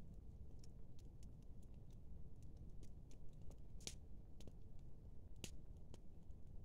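Faint, irregular crackling and ticking, like a small wood fire burning, with a low steady rumble underneath.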